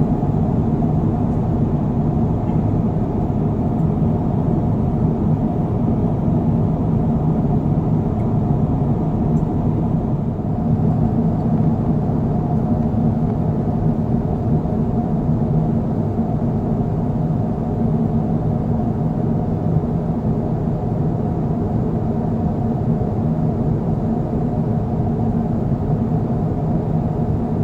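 Steady cabin drone of an Airbus A350-1000 in flight: the Rolls-Royce Trent XWB engines and the airflow make an even, unbroken rumble.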